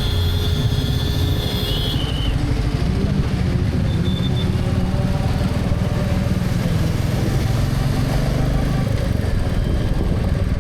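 Motorcycle engine running steadily at cruising speed, heard from the rider's helmet camera, over road and traffic noise. A faint high whine stops about two seconds in, and short high beeps sound near two and four seconds in.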